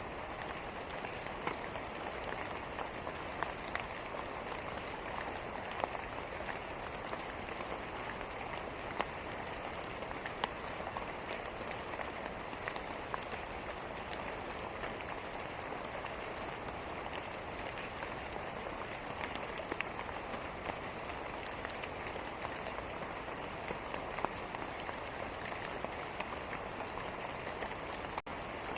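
Steady rain falling: a constant hiss dotted with the sharp ticks of single drops striking a surface. The sound cuts out for a split second near the end.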